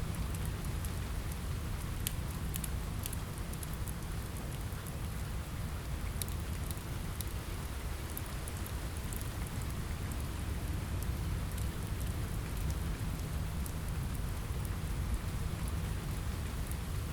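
Steady rain on a window with a low rumble, and a fireplace crackling: many small sharp crackles scattered throughout.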